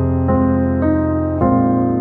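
Background piano music: sustained notes and chords, with a new one struck about every half second.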